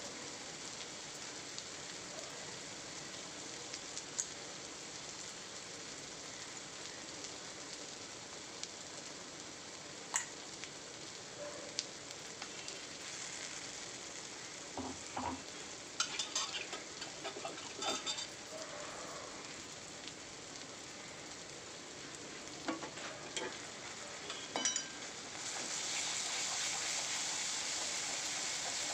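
Ground sesame thuvaiyal paste frying in hot oil in a kadai, with a steady sizzle broken by a few sharp pops. About 25 seconds in, the sizzle gets louder as the paste is stirred with a wooden spatula.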